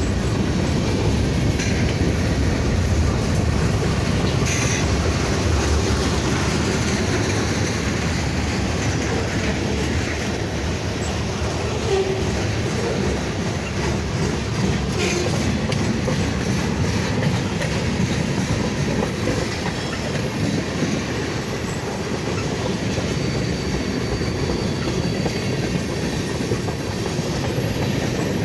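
Freight cars of a slow mixed freight train rolling past: a steady rumble of steel wheels on rail, with an occasional knock as wheels cross rail joints and a faint high wheel squeal later on.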